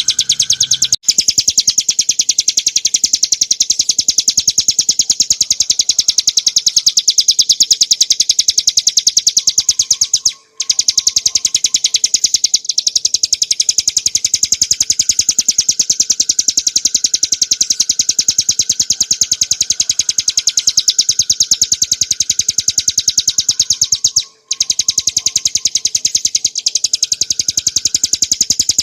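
Ciblek gunung, a small prinia, singing a loud, fast, unbroken run of rapid high notes, with brief breaks about a second in, around ten seconds in and near the end.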